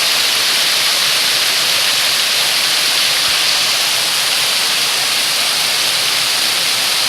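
Rushing water in a steady, loud hiss, as of a creek cascading over rocks.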